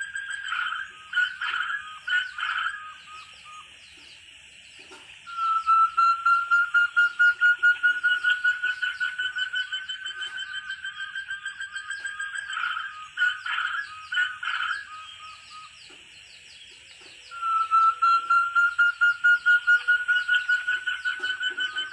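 Forest partridge (puyuh hutan) calling: a long run of rapid whistled notes, about four a second, slowly rising in pitch. Between the runs come a few short clustered notes. The run starts again about two-thirds of the way through.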